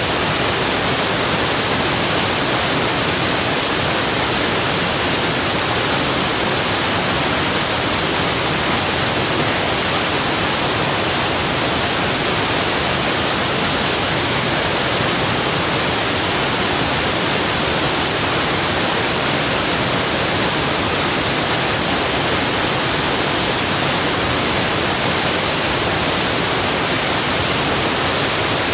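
Waterfall: steady, unbroken rush of falling water, a dense hiss with no separate splashes.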